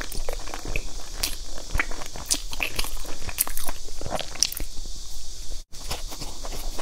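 Close-miked eating: a person biting into and chewing a pastry, with many small crunches and mouth clicks. The sound cuts out completely for a moment near the end.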